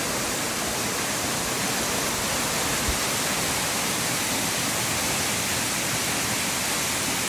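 Royalston Falls, Falls Brook plunging about 45 feet into a pool in a granite gorge: a steady rushing of falling water.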